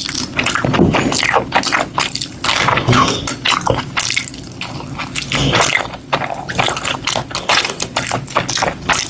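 Close-miked mukbang eating: a steady run of wet chewing, smacking and squishing mouth sounds with many small irregular clicks.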